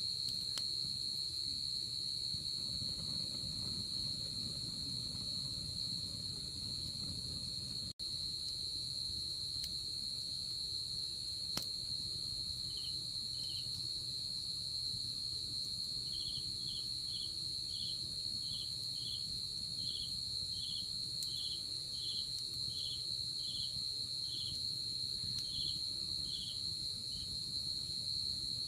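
Night insects calling: a steady, unbroken high trill, joined about halfway through by another insect chirping in regular pulses, one or two a second. Under it a low campfire burning, with a couple of faint crackles.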